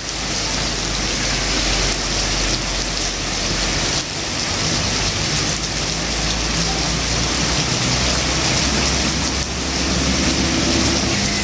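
Frogs chorusing at night: a dense, steady din, with brief breaks about four and nine and a half seconds in.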